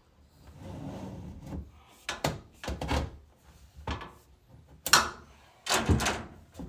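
Irregular knocks and scrapes of an inspection camera being pushed through a flexible vinyl dryer vent duct. The loudest knock comes about five seconds in.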